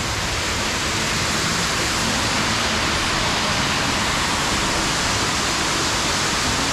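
A tall waterfall, about 137 feet high, rushing steadily: a dense, even wash of falling water.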